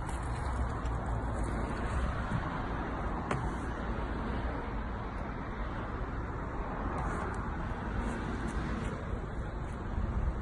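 Steady road-traffic noise with a low rumble and a few faint clicks.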